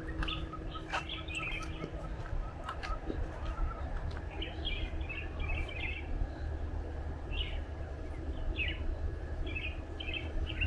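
Birds chirping in short, quick clusters that repeat every second or so, over a steady low background rumble.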